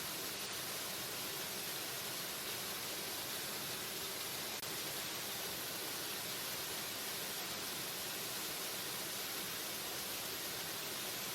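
Waterfall: the steady rush of falling water, an even hiss that is strongest in the high range and never changes.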